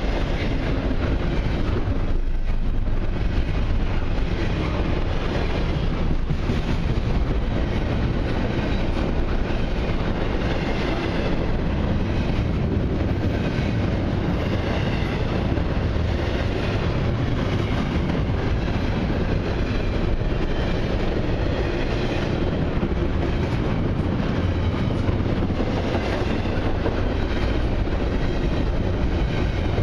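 Intermodal freight cars of a long train rolling past steadily, their steel wheels running on the rails.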